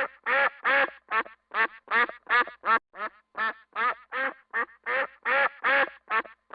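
A duck quacking over and over in a fast, steady series, about three short nasal quacks a second.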